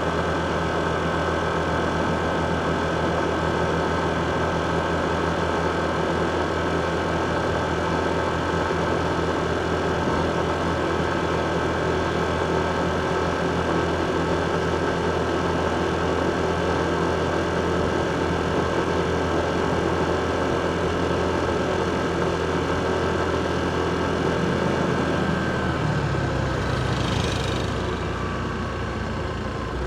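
Motorcycle engine idling steadily. About 26 seconds in its note changes, and a brief high hiss follows.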